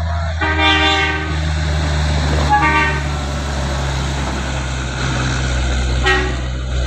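Heavy truck engine running with a steady low drone while a vehicle horn sounds three times: one long blast about half a second in, a shorter one near the middle, and a brief toot near the end.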